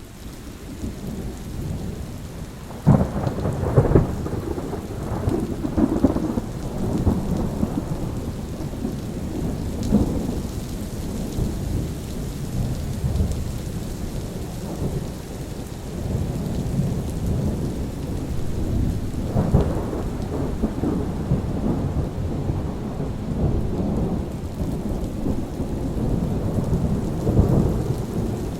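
Thunderstorm: steady rain with rolling thunder, fading in over the first couple of seconds. A sharp crack of thunder comes about three seconds in, and further low rumbles swell several times after it, the strongest about twenty seconds in.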